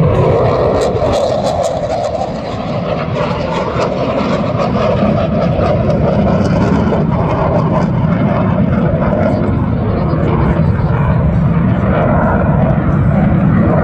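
Eurofighter Typhoon's two EJ200 turbofan jet engines in flight, a loud continuous jet roar that dips slightly about two seconds in and then holds steady.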